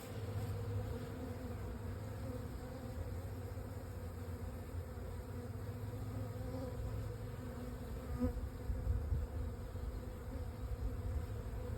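A swarm of honey bees buzzing steadily, the even hum of many bees in flight. The bees are disoriented after being put into a new hive box.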